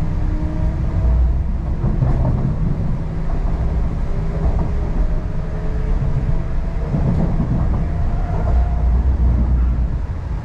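MTR East Rail line R-Train electric multiple unit running on the line: a steady low rumble from wheels and track, with the traction motors' whine rising slowly in pitch as the train gathers speed.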